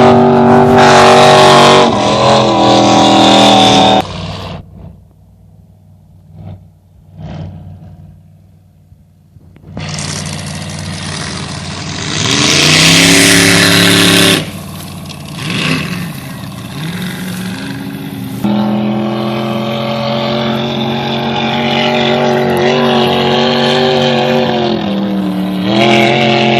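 Drag boat racing engines running loud at high revs, with a quieter lull between about four and nine seconds, then a rising engine note as one accelerates.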